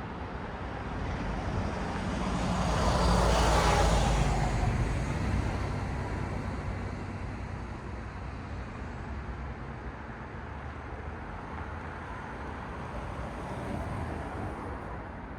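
A car passes by: its tyre and engine noise rises to a peak about three to four seconds in and fades away, over a steady hum of road traffic. A second, fainter vehicle swells and fades near the end.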